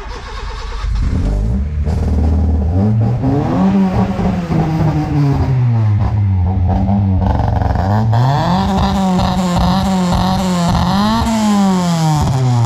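Tuned Honda City Type-2's swapped 1.5-litre VTEC four-cylinder with aftermarket exhaust revving hard. The pitch climbs and holds high, drops back, then climbs and holds high again before falling away near the end.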